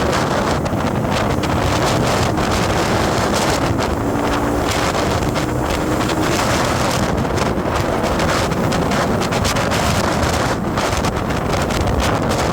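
Steady wind rushing over the microphone, mixed with the road and running noise of a moving vehicle on the road.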